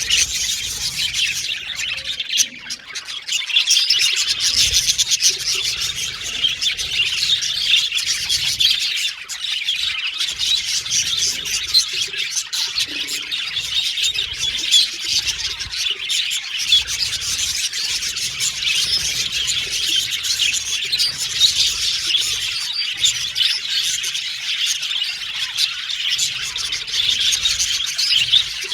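Several budgerigars chirping and warbling together in a dense, continuous high chatter, with brief lulls near the start and about ten seconds in.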